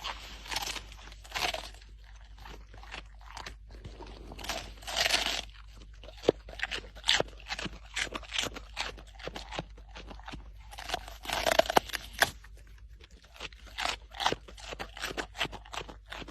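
Crunching and chewing of something crisp: many short, irregular crunches, with a few longer, louder bouts about half a second in, about five seconds in and about eleven seconds in.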